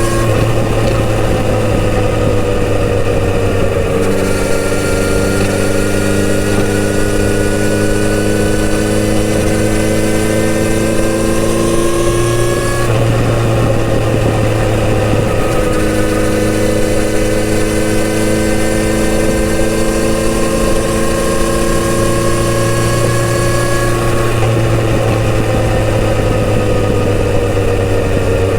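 Kawasaki Z900RS inline-four engine through its stock exhaust while riding. The engine note climbs slowly for several seconds at a time, then breaks and drops three times, about 4, 13 and 25 seconds in.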